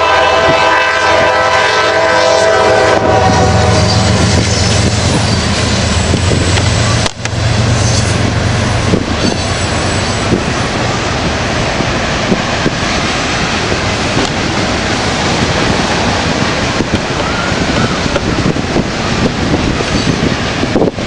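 A locomotive air horn sounding a held chord that stops about three seconds in, then the steady rumble of the moving train with the clatter of the open flat car's wheels over old 20-foot jointed rail.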